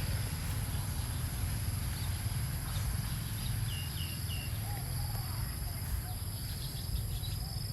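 Outdoor ambience: a steady high insect drone over a low rumble, with three quick faint bird chirps about four seconds in.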